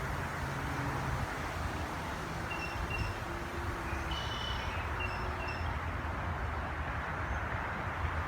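Outdoor ambience: a steady low rumble like distant traffic, with a few faint, short bird chirps a few seconds in.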